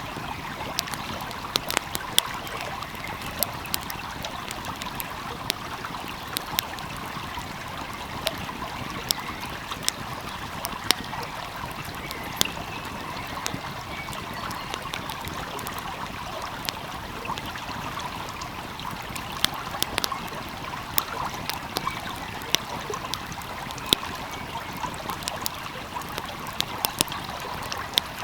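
Wood fire crackling, with sharp irregular pops and snaps, over the steady rushing babble of a flowing stream.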